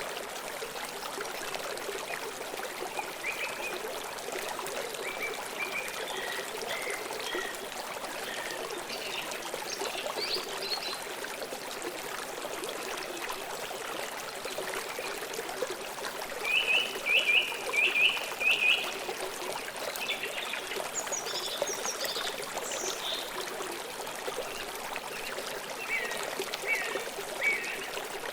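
Stream water flowing and trickling steadily, with songbirds calling over it: scattered short chirps, a louder run of four or five quick notes about halfway through, and more calls near the end.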